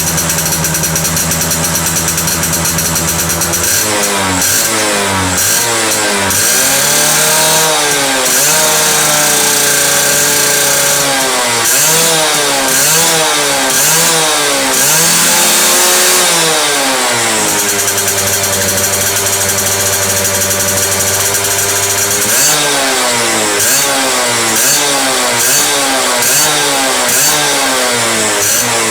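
Yamaha F1ZR's single-cylinder two-stroke engine idling, then revved in repeated quick throttle blips that rise and fall. It settles back to a steady idle for several seconds, then another run of blips follows.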